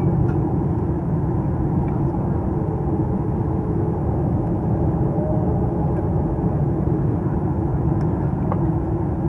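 Steady low rumble inside the cabin of a Boeing 737-800 just after landing, from the running engines and air conditioning, with a faint steady hum.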